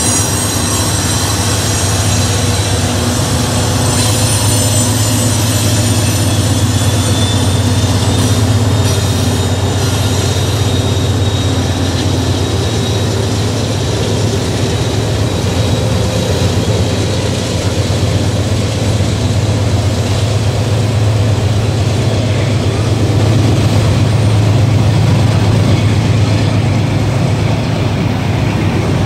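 Norfolk Southern freight train rolling slowly over a grade crossing: a steady heavy rumble of wheels on rail, with a mid-train diesel locomotive going by first. Thin high wheel squeal sounds over the rumble and fades after about ten seconds.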